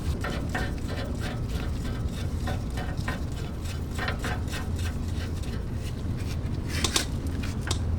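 Hand tools clicking and knocking on metal suspension parts as a fastener is worked toward a 150 ft-lb torque, with a sharper click about seven seconds in, over a steady low hum.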